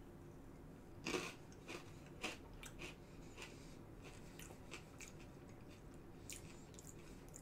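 A person bites into a crunchy Japanese rice cracker (senbei) with a nut in it and chews it with faint crunches. The loudest crunch comes about a second in, followed by scattered softer ones.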